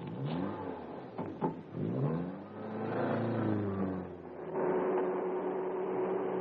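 Car engine accelerating, its pitch rising twice in the first couple of seconds, then running at a steady pitch.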